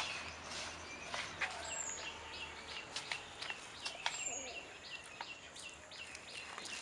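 A small bird calling a quick series of short high chirps, about three a second, over faint outdoor background noise. A few light clicks are scattered through.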